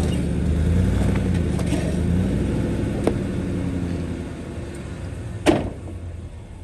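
Van engine running as the van moves over rough ground, with a faint click about three seconds in and a sharp knock about five and a half seconds in.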